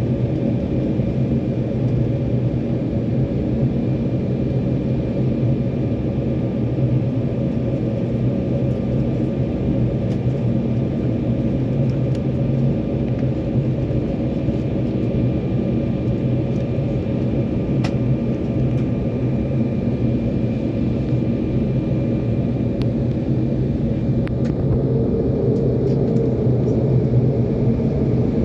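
Steady cabin noise inside an Embraer E190 airliner: a deep rumble of its GE CF34 turbofan engines and airflow, with a faint high whine over it, swelling slightly near the end.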